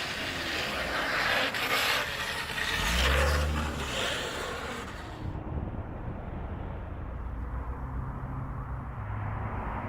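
Car running or driving, a steady vehicle noise with a low hum. About five seconds in an edit cuts the sound, and it turns muffled.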